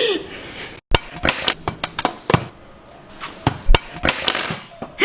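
A quick, irregular series of about a dozen sharp whacks and thumps, blows being struck.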